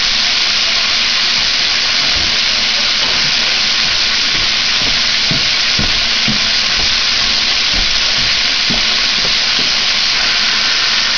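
Chopped onion and celery sizzling steadily in hot fat in a soup pot, with a few soft knocks in the middle.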